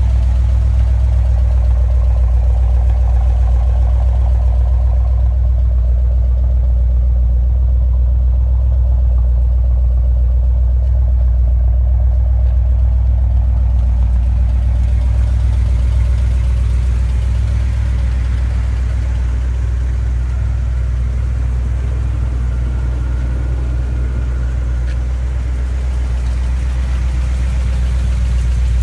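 1972 Chevrolet Corvette's V8 engine idling steadily.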